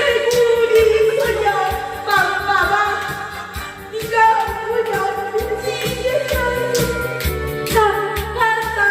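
Pop song with a singing voice carrying the melody over a bass line and a steady beat.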